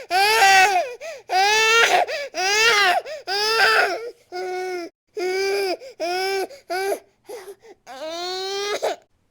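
A baby crying hard in repeated wails, each about half a second to a second long, broken by short catches of breath. The wails stop shortly before the end.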